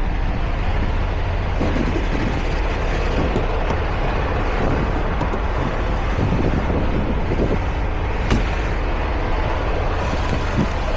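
Semi-truck running, a steady rumble with a noisy hiss over it, and one sharp click about eight seconds in.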